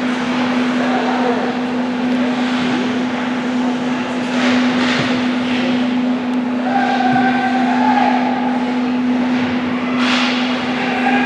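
Ice hockey game sound in a rink: skates scraping and carving on the ice over a steady low hum, with faint distant shouts.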